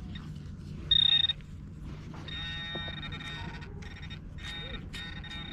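Handheld metal-detecting pinpointer sounding a high-pitched electronic tone as metal is close to its tip: one short beep about a second in, then a buzzy tone that comes and goes again and again from about two seconds on.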